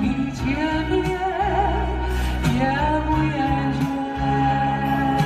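Live music: a singer holding long notes with vibrato over instrumental accompaniment with steady bass notes and regular percussion.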